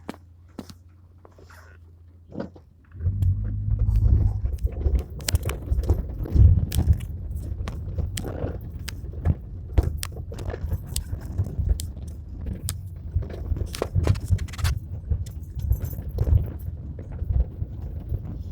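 Rain heard on a phone microphone: dense crackling drop hits over a heavy rumble, starting suddenly about three seconds in after a faint steady hum.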